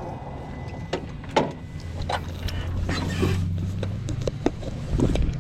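A series of sharp clicks and knocks from equipment being handled, with a low steady hum for a couple of seconds in the middle.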